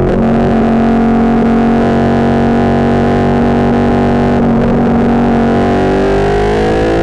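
Ducati 1299 Panigale's L-twin engine through an Austin Racing GP2 full exhaust system, on the move. The engine holds a steady speed, rises in pitch over the last second or so, then drops abruptly at the end. The exhaust sits too close to the microphone and distorts it.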